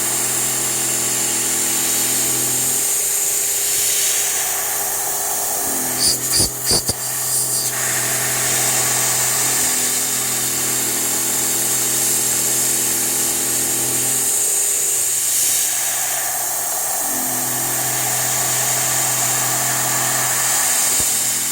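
Grizzly G0704 benchtop CNC mill cutting a 2D adaptive toolpath: the spindle and drive hum steady under a constant hiss of cutting and air blast. Twice the hum gives way to rougher cutting noise, and there is a quick run of sharp knocks about six seconds in.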